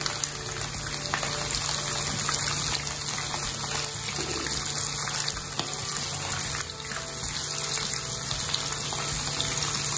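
Cornstarch-coated chicken wing pieces sizzling steadily in shallow oil in a frying pan, the first, lighter fry of a double fry.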